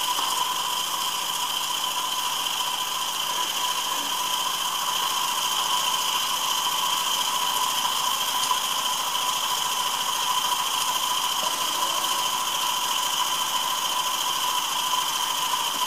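Live-steam model engine and boiler running: a steady hiss of steam with a constant high whine over it, unchanging throughout.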